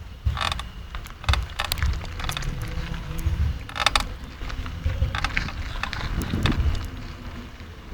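Irregular creaking and crackling clicks from a 2011 GT Avalanche mountain bike under pedalling, over a low rumble. The noise comes from a part the owner cannot identify on a bike only about a month old.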